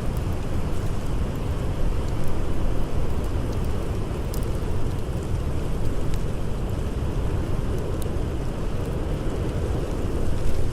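Blizzard-and-campfire ambience: a steady rush of storm wind, heaviest in the low end, with faint sharp crackles of a wood fire now and then.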